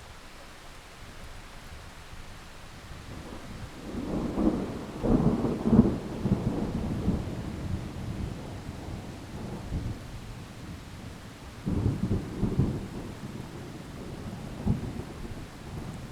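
Thunderstorm: steady rain with rolling thunder. A long peal of thunder rumbles in about four seconds in, a second peal comes about twelve seconds in, and a smaller rumble follows near the end.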